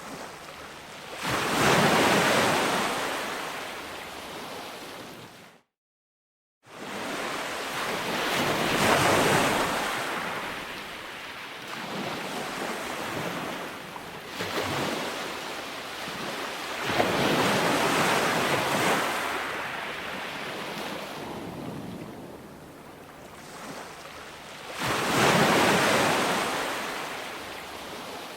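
Calm ocean waves breaking and washing up a beach, each wave swelling and then fading over several seconds. The sound cuts out completely for about a second, around six seconds in.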